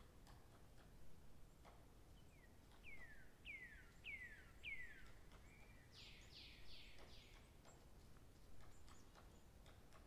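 Faint bird calls: a run of about five clear whistles, each falling in pitch, then four short, harsher notes in quick succession, over faint outdoor background hiss.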